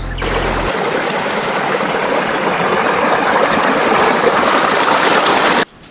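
Steady rush of flowing water, cutting off suddenly near the end.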